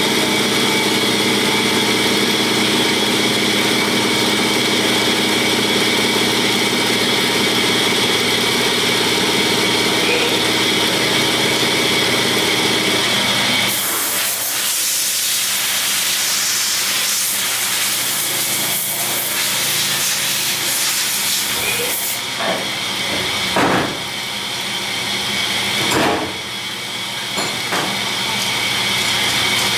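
Factory machinery running with a steady hum and held tones. About halfway through a loud hiss like a blast of compressed air or steam takes over for several seconds, followed by a few sharp knocks.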